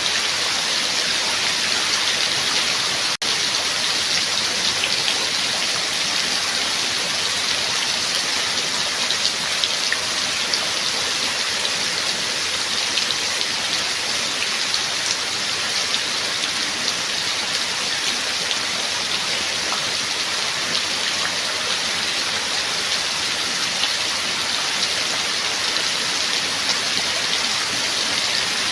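Steady rain falling, an even hiss dotted with the ticks of single drops. There is a split-second drop-out about three seconds in.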